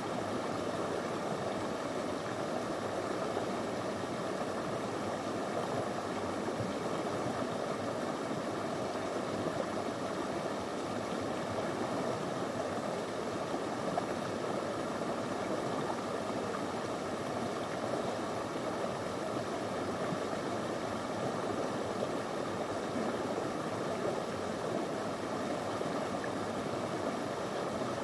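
A small stream running over stones: a steady wash of flowing water.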